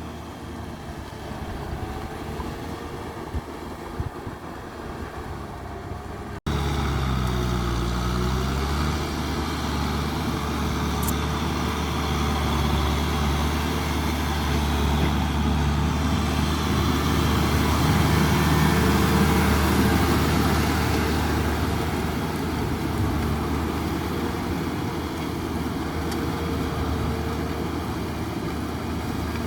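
Tractor engine running steadily as it works a field. For the first six seconds there is a rougher rumble with wind on the microphone, then an abrupt cut to a louder, even engine note that holds steady.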